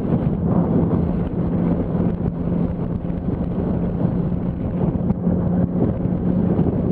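Yamaha R1's inline-four engine running at a steady pace, with wind noise on the microphone.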